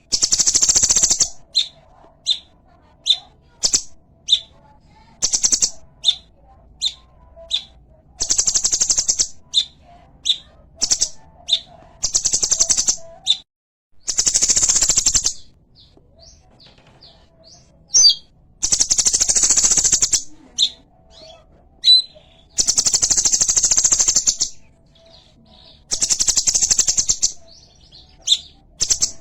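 Cungkok, a small prinia, calling: loud, dry buzzing trills of one to two seconds each, about eight of them, alternating with short high chirps.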